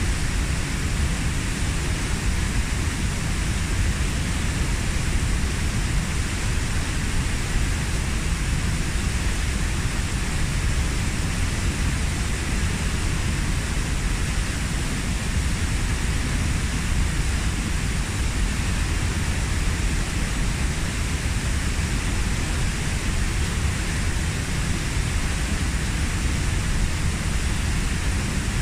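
Waterfall about 15 m high plunging into its pool, a steady even rush of falling water with a deep low rumble beneath the hiss.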